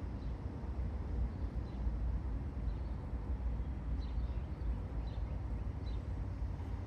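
Outdoor background: a steady low rumble, with faint short high chirps about once a second.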